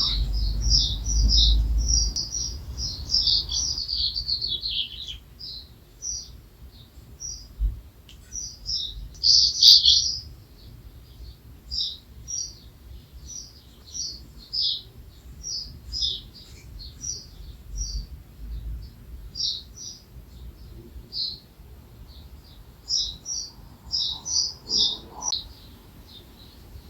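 Small songbirds chirping and twittering in short high notes: a dense run of chirps for the first few seconds, a louder burst about ten seconds in, then single chirps roughly once a second. A low rumble sits under the first two seconds.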